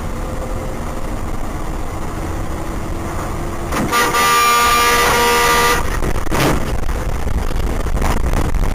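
Car horn honking in one sustained blast of about two seconds near the middle, over the steady low rumble of a car's engine and tyres on the road.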